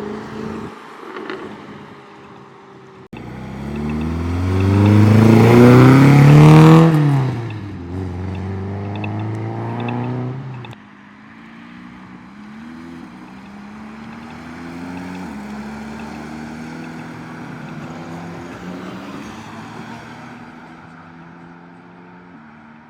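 Sports car engines accelerating away. One revs hard, loud and rising to a peak about six seconds in, then drops back. After an abrupt cut, another car pulls away more quietly, its engine climbing in pitch through several quick upshifts as it fades.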